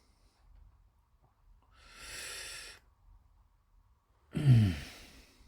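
A man breathing: a long breath in about two seconds in, then near the end a short voiced sigh that falls in pitch.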